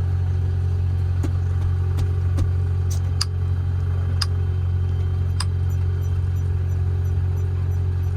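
Light aircraft's piston engine and propeller droning steadily from inside the cockpit in flight, with a few faint brief clicks.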